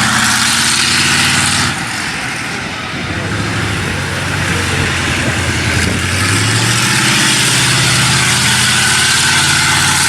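A vehicle engine running loudly with a steady hiss over it. It eases off about two seconds in and builds again with rising pitch about six seconds in.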